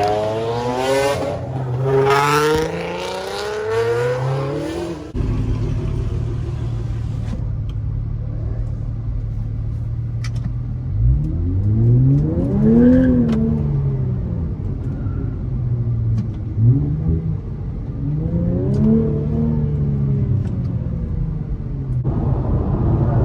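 High-performance car engine revving hard, its pitch sweeping up again and again for the first few seconds. After a sudden change, an engine idles with a steady low drone and is blipped three times, each rev rising and falling back.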